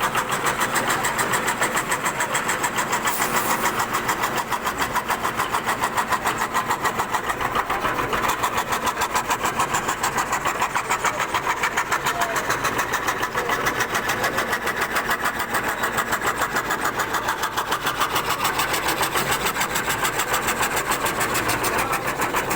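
CNC wood carving machine running as it cuts a lattice pattern into wood: a steady machine noise with a fast, even pulsing.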